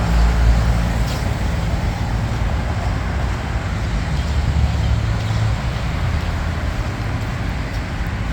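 Road traffic: a steady low rumble of passing vehicle engines.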